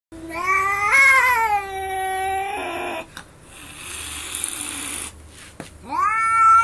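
A cat yowling in long, drawn-out calls: one call of about two and a half seconds that rises and then holds, and a second rising call near the end. A breathy hissing noise fills the gap between them.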